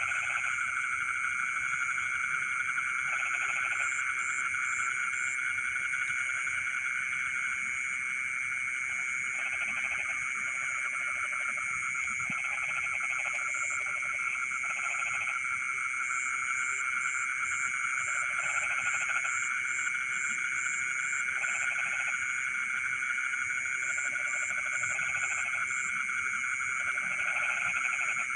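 Frogs calling in a flooded rice paddy at night: a steady, dense trilling chorus, with short bouts of pulsed croaks breaking in every couple of seconds and runs of rapid high ticking on top.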